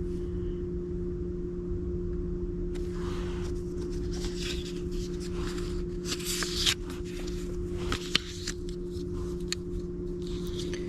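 Paper index cards being handled and shuffled, rustling with small taps and clicks, over a steady low hum.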